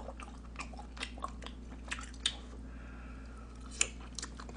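Close-up mouth sounds of someone chewing spicy tteokbokki rice cakes: irregular wet clicks and smacks, two or three a second, with a short pause in the middle.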